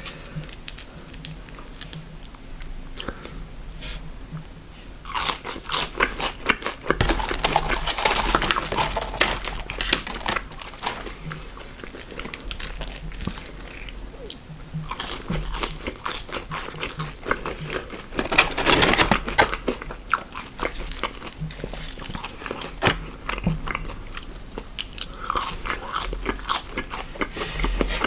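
Close-miked eating sounds: crunchy fast food bitten and chewed, with dense crisp crackles that grow louder in two stretches, a few seconds in and again past the middle.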